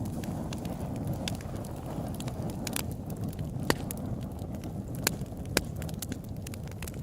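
Open-air wood campfire crackling: irregular sharp pops and snaps over a steady low rush of flames, with a few louder pops in the second half.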